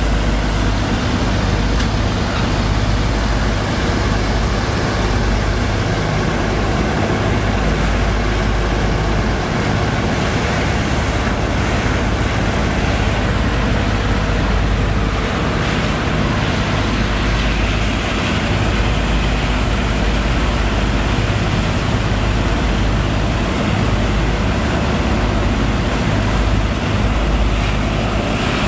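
Sand-pump engine on a sand boat running steadily under load, with a continuous rush of water and sand slurry over its low hum.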